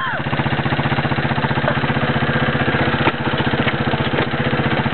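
Boat engine running steadily at an even speed, its firing pulses heard as a rapid regular throb.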